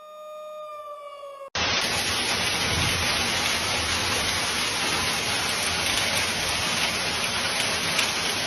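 A siren's steady tone winding down in pitch, cut off about a second and a half in by the loud, steady hiss of a heavy rain downpour.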